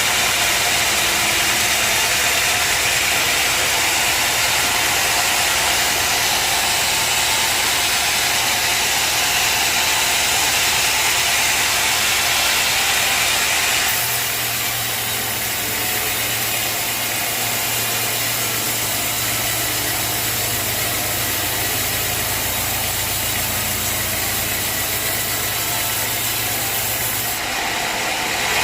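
Sawmill machinery running: a steady engine hum under a dense, loud hiss, with the sound changing abruptly about halfway through and again near the end.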